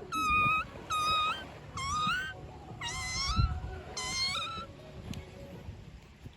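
Kitten mewing: five short, high-pitched mews about a second apart, the later ones bending up and down in pitch, ending about four and a half seconds in. The mews are imitation kitten cries made to tease an adult cat.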